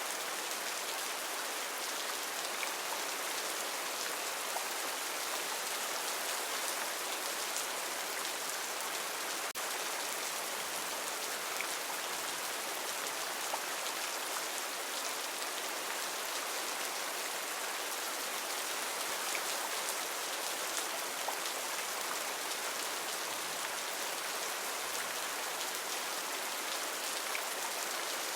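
Heavy rain falling steadily: a dense, even hiss with faint scattered drop ticks, unchanging throughout.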